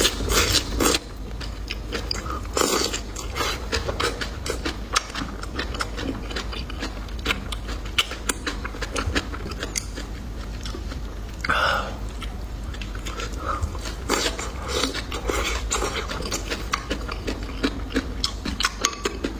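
A person chewing and biting food, with many small irregular crunchy clicks and wet mouth sounds, and one brief louder noise about halfway through.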